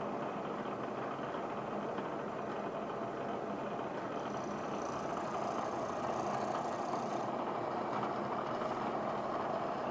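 A metal-working machine tool running steadily. It gets a little louder from about four seconds in, with a faint high whine for a few seconds.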